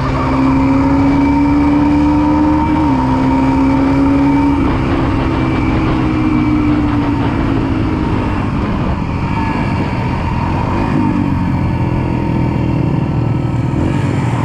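Pit bike engine running under way at a steady speed, its pitch stepping down about three and five seconds in, then fading into a steady rushing noise.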